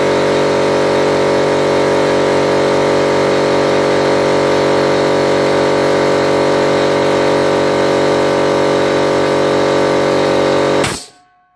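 A 50-litre air compressor running steadily with a loud, even, pitched drone, then cutting out abruptly near the end.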